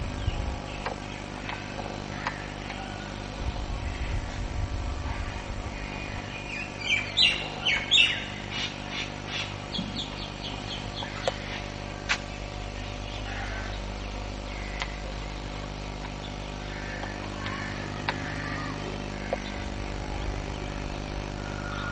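Birds chirping, with a loud cluster of chirps about seven seconds in followed by a quick run of short, evenly spaced high notes, then scattered faint calls. A steady low hum runs underneath.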